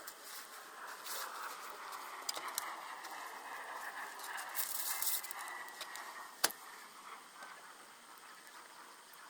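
Wood fire crackling in a can stove: scattered light ticks over a soft hiss, with one sharp pop about six and a half seconds in.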